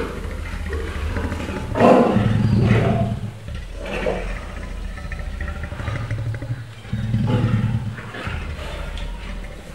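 Lion growling low in repeated stretches while chewing a piece of raw meat held between its paws.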